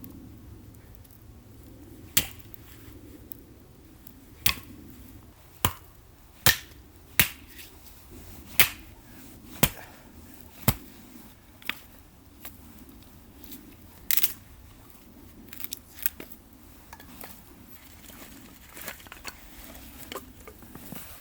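A series of sharp knocks or cracks at uneven intervals, about one a second for the first ten seconds or so, then fewer and softer ones.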